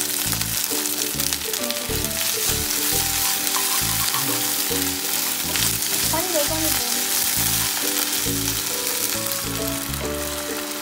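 Chopped onions with ginger-garlic paste and bay leaves sizzling steadily in hot oil in a nonstick frying pan, stirred now and then with a wooden spatula.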